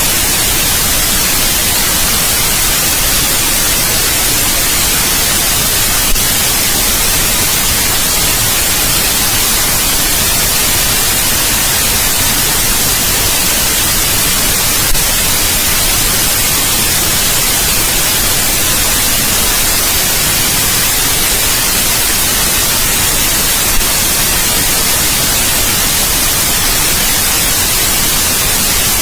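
Steady, loud white noise: an even hiss strongest in the high frequencies. Three faint clicks break it, about every nine seconds.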